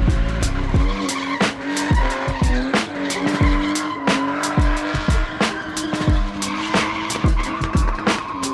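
A spinning car's engine held at steady high revs with tyres squealing and skidding, over music with a heavy bass beat about twice a second.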